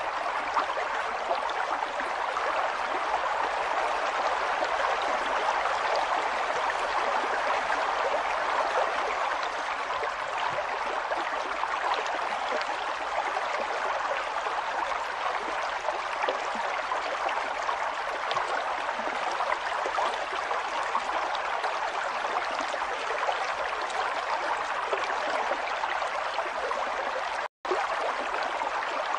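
River water flowing steadily, a continuous rushing babble. The sound cuts out for a split second near the end.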